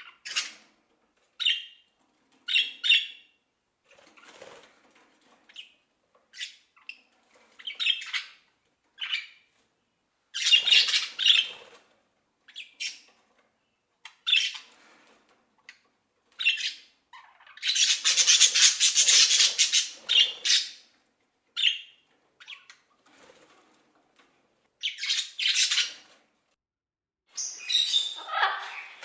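Parrots calling: a series of short, loud calls every second or two with silent gaps between them, and a longer run of calls a little past the middle.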